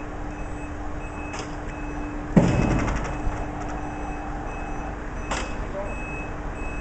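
A heavy lorry's reversing alarm beeping in an even on-off pattern over a steady engine hum, with one loud metallic clank about two and a half seconds in and a couple of sharp clicks.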